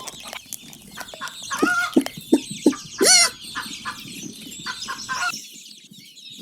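Chicken sound effect from a children's sound book's button: hens clucking and short chirps, which cut off suddenly about five seconds in.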